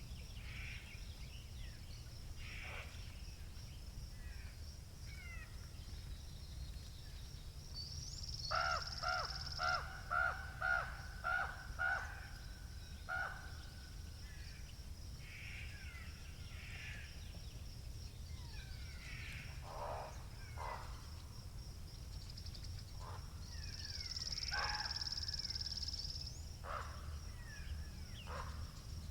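A crow cawing about six times in quick succession a few seconds in, over scattered small-bird chirps and a high buzzing trill that swells twice. A steady low wind rumble lies underneath.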